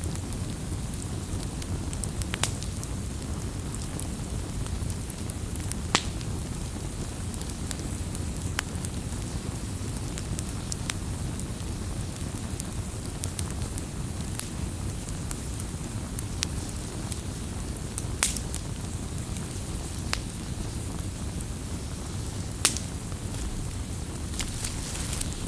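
Firewood burning with a steady low rumble of flame and scattered sharp crackles and pops, a few louder snaps standing out.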